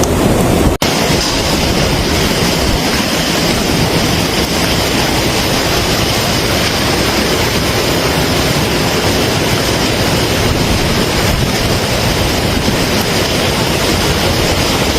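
Loud, steady rushing roar of floodwater, with a momentary dropout about a second in where the footage cuts.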